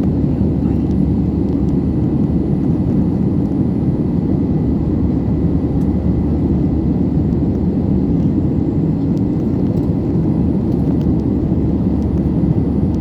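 Steady low engine and airflow noise heard inside an airliner cabin, unchanging throughout, with a faint thin high whine above it.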